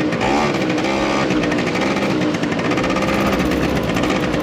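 Small motorbike engine running, its pitch rising and falling with the throttle in the first second or so and then holding fairly steady, as the bike is ridden on loose ground to test traction.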